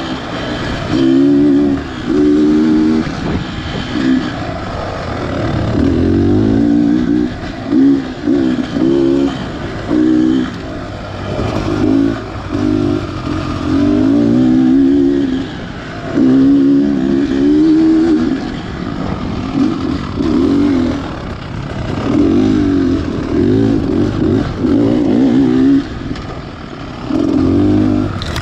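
Beta Xtrainer 300 two-stroke dirt bike engine revving in repeated short bursts of throttle. The pitch rises with each burst and drops back in between.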